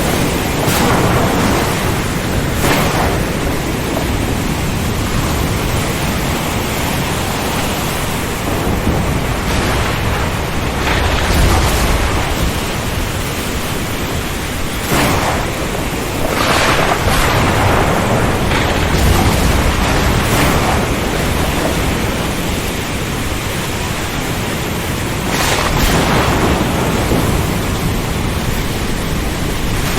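Steady heavy rain, a dense even hiss that swells briefly every few seconds, with low rumbles of thunder rolling in twice.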